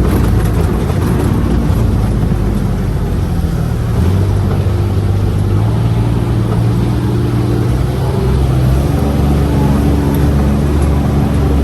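UTV engine running on the move, a steady hum that steps up in pitch about four seconds in and holds there.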